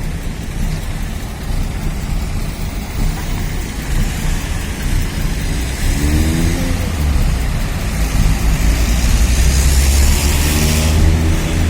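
Street traffic: cars passing and accelerating, with engine pitch rising twice, about six seconds in and again near the end, and a loud rush of a vehicle going by shortly before the end. A heavy low rumble of wind on the microphone runs underneath.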